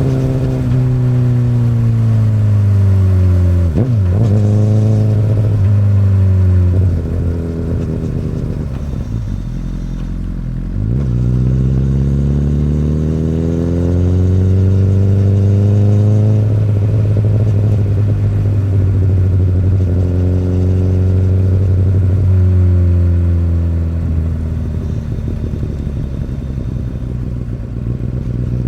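Honda CBR1000RR inline-four running through an Akrapovic exhaust while being ridden. The engine note falls as the bike slows, with two quick gear changes about four and eleven seconds in, then rises as it accelerates and settles to a steadier cruise.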